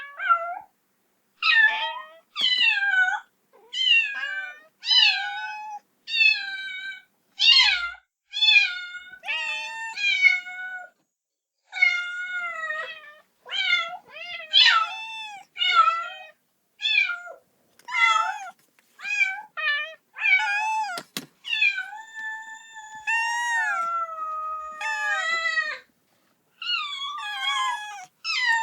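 A kitten meowing over and over, calling for its mother: short, high, wavering meows about once a second, with a longer drawn-out meow in the second half.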